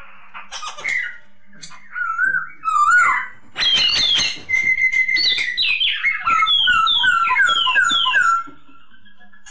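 Poksay Hongkong (black-throated laughingthrush) singing: loud whistled, gliding phrases that end in a quick run of repeated downslurred notes, stopping about a second before the end.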